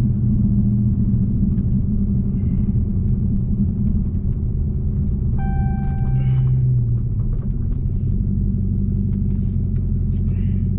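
Dodge Hellcat's supercharged V8 running at low speed, a steady low rumble. About five and a half seconds in, a brief electronic beep sounds over it for a second or so.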